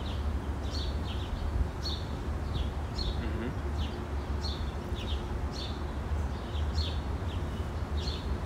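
Small birds chirping: short, high, falling chirps repeated two or three times a second, over a steady low rumble.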